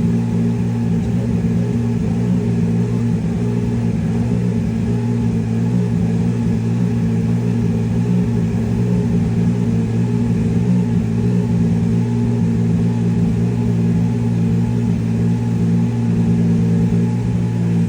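Subaru BRZ GT300 race car's turbocharged flat-four engine idling steadily through its racing exhaust.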